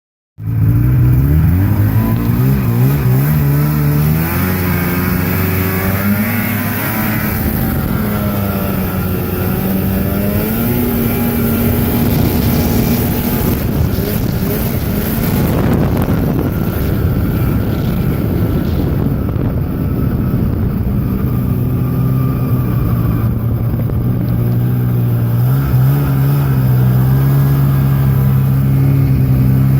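1980 Ski-Doo Blizzard 5500 snowmobile's two-stroke engine running under way. Its pitch rises and falls with the throttle, a noisy rush builds in the middle, and the engine settles to a steadier, lower note near the end.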